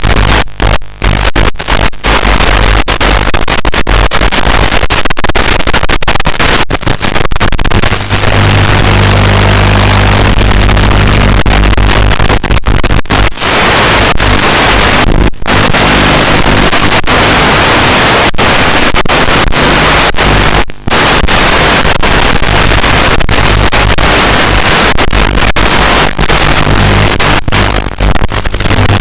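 Loud static hiss with a steady low hum from an analog FPV video link's empty audio channel, broken by many brief dropouts as the radio signal flickers.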